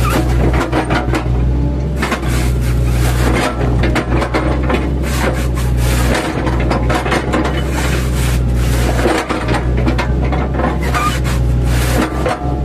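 Mini excavator's diesel engine running steadily under load, with the irregular crunching and scraping of its bucket chopping a felled oil palm trunk.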